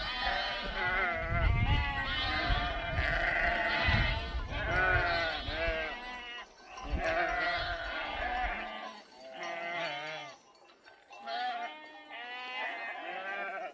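Many bleating animals calling over one another in long wavering cries, like a flock of livestock. A low rumble underneath stops suddenly about nine seconds in.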